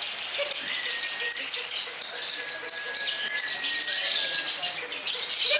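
Lovebirds chattering in long, rapid, high-pitched trills (the 'ngekek' song), several birds at once with no pause.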